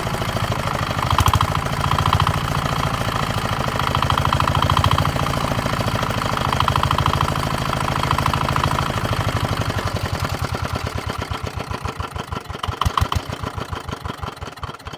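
A freshly repaired walk-behind tractor engine running steadily. After about ten seconds it is shut off, and its firing beats slow and die away as it coasts to a stop.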